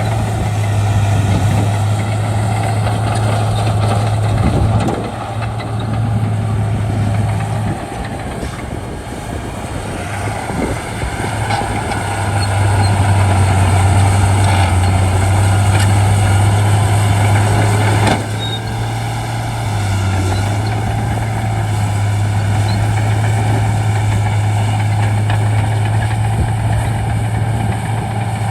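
Heavy bulldozer diesel engine running steadily, its level easing off and building again as the load changes, with a few sharp knocks.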